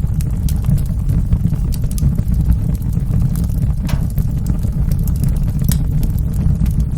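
Wood fire burning in a fireplace: a steady low rumble of the flames with scattered sharp crackles and pops, a more distinct pop about four seconds in.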